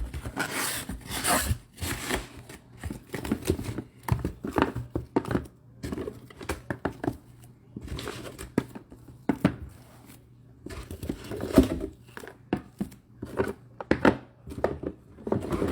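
Packaging of sealed trading-card boxes being opened: plastic wrap crinkling and tearing in irregular rustles, with sharp clicks and knocks as the boxes are handled.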